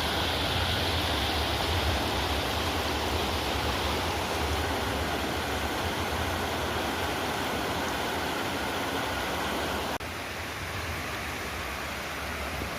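Steady rushing of flowing river or stream water, dropping abruptly to a slightly lower level about ten seconds in.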